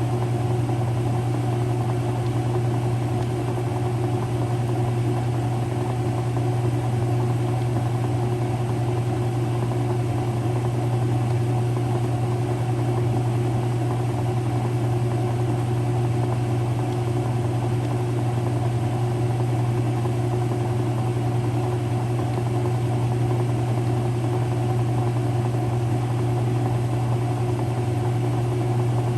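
Early-2000s Whirlpool direct-drive washing machine running its wash agitation: a steady motor hum with no breaks.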